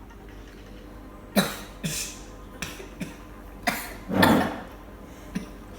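A person coughing in a string of about seven sharp coughs, the longest and loudest about four seconds in: coughing set off by eating hot chili.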